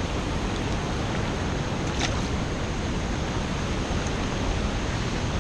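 Steady rush of river water running over shallow rapids, with a faint click about two seconds in.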